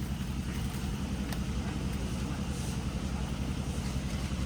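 Concrete mixer's engine running steadily with a fast, even low throb.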